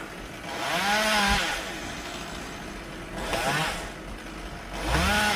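Chainsaw being revved in three bursts, its pitch rising and falling with each one, as a tree is cut.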